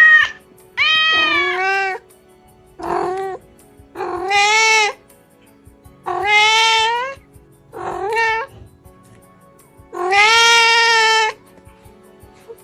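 Domestic cat meowing over and over: about seven separate, drawn-out meows, each rising and then falling in pitch, with short pauses between them.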